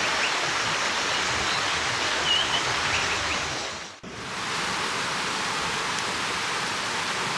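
Steady rushing outdoor ambience with a couple of short, faint bird chirps in the first half; the sound fades out and back in about halfway through.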